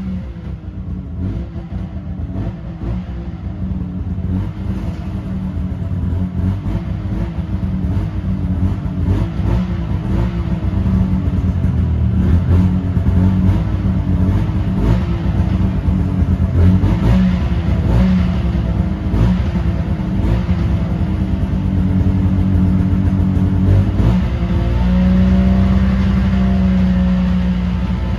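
Yamaha V-Max snowmobile's three-cylinder two-stroke engine running, its revs blipped up and falling back roughly once a second, then held at a steady higher speed, stepping up once more near the end.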